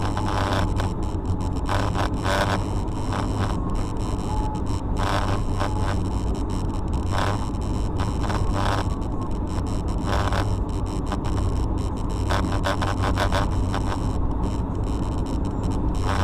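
Car driving, heard through a dashcam: a steady low engine and road rumble, with short scraping or clicking noises coming again and again.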